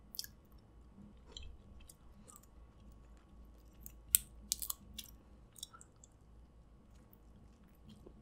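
Quiet chewing of snow crab meat with soft mouth sounds, broken by scattered faint clicks, a few sharper ones about four to five seconds in.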